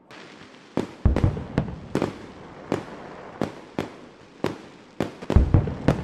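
Fireworks going off: sharp bangs and pops at irregular intervals, about one or two a second, with a quick cluster of reports near the end, over a steady hiss.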